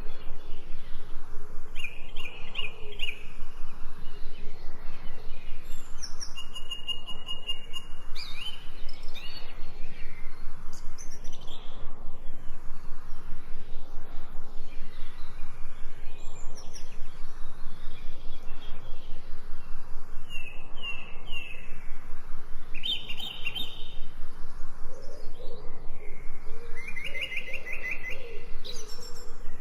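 Songbirds chirping and calling, in short phrases of rapid repeated notes that come every few seconds, over a steady background hiss.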